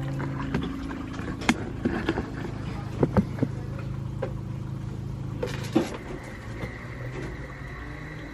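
Single-serve pod coffee machine humming steadily as it brews, with scattered clicks and light knocks; the hum stops about six seconds in.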